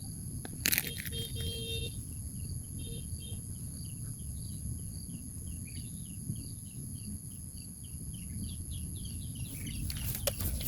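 A songbird giving a long run of short, falling chirps, about three a second, over a steady high insect whine, with a sharp click about a second in.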